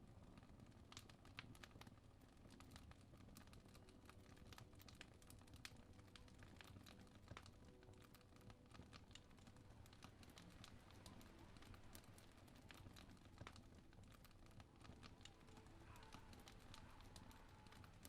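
Faint fireplace crackle: irregular small pops and snaps from burning wood over a steady low wind rumble.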